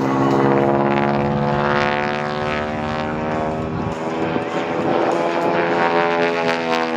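Piston-engined propeller airplanes flying past, a steady drone from more than one engine whose pitch slides down as they go by.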